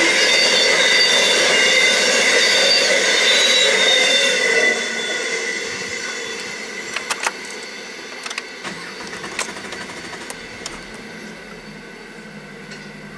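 Grain train hopper wagons rolling past over the rails with a high wheel squeal. The noise fades about five seconds in as the end of the train clears the crossing, leaving only a few light clicks.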